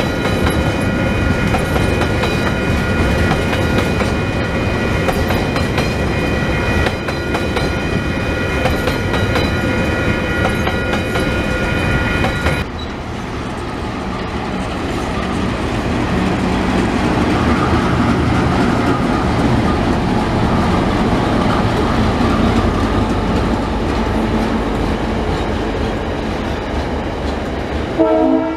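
Loaded coal hopper wagons rolling past, wheels clattering over the rail joints with a steady high ringing squeal from the wheels. Then diesel-electric freight locomotives hauling coal wagons, engine hum under the rumble of the passing wagons, with a short loud pitched note near the end.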